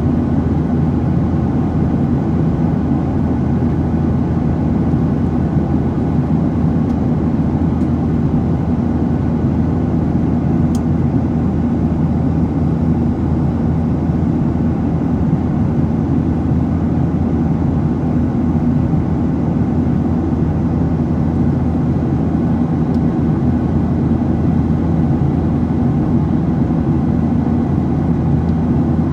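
Steady cabin noise inside a Boeing 737-700 climbing after takeoff: the continuous low drone of its CFM56-7B turbofan engines and rushing airflow, unchanging throughout, with a few faint steady hums in it.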